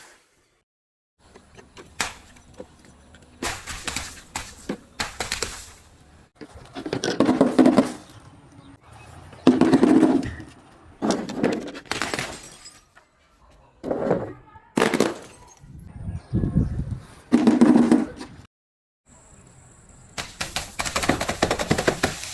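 A series of separate crushing and breaking sounds: objects cracking and crunching one after another in short bursts, with some glass clinking and breaking among them, several bursts cutting off abruptly.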